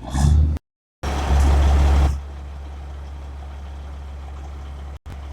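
Truck engine running, louder for about a second near the start, then settling to a steady low idle. The sound cuts out briefly twice.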